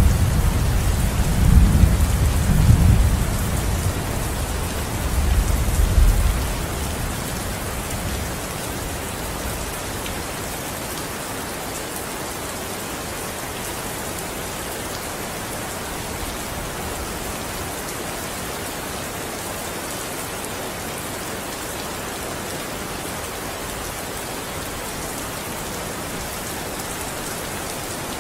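Steady heavy rain falling, with a roll of thunder rumbling low and loud in the first several seconds and dying away by about eight seconds in, leaving only the even hiss of rain.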